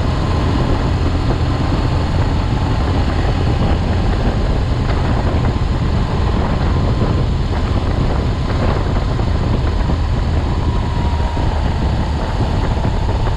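BMW R 1200 GS boxer-twin engine running steadily at cruising speed, heard from the moving bike with constant wind rush over the microphone.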